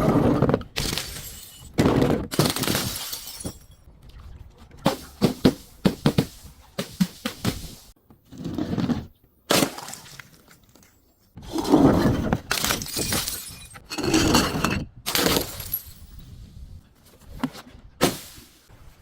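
Glass bottles being smashed: a series of loud crashing and shattering breaks with short pauses between them, the glass crunching and tinkling as it breaks.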